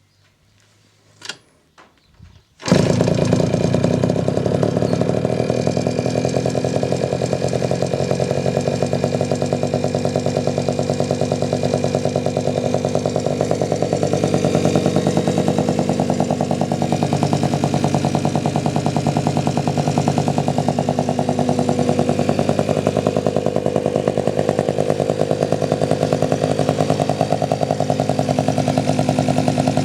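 A few faint clicks, then from about three seconds in a Yamaha QT50 moped's 49cc two-stroke engine running steadily and loudly through a modified exhaust with a KX250 muffler.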